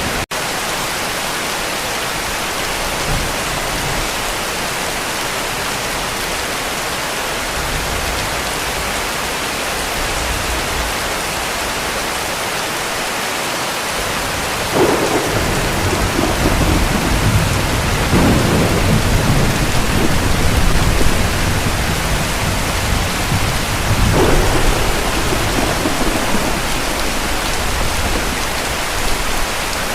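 Steady heavy rain, with rolling thunder coming in about halfway through and rumbling in several swells.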